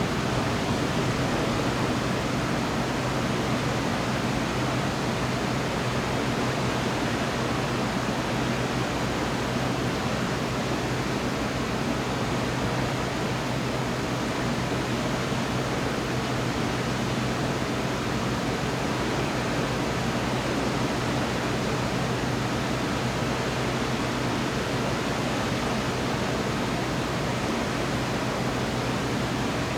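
Steady rushing noise that never lets up, with a low steady hum under it; no thunderclap or other sudden sound.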